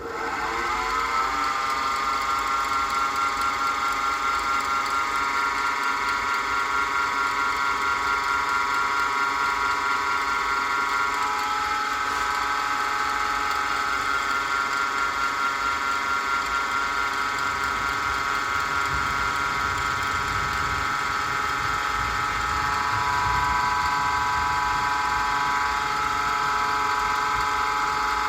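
Wood lathe's motor starting up, its whine rising in pitch over about a second, then running steadily at speed. A rougher low rumble joins in the last third.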